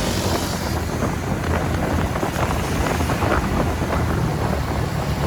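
Wind rushing over the microphone of a moving TVS Ntorq scooter, over a steady low rumble of its engine and the road.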